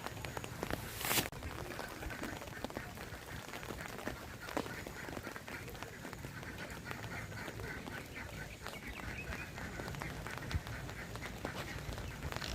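Animal calls: rapid runs of short, repeated quacking-like calls over a steady background hiss, with a brief loud noisy burst about a second in.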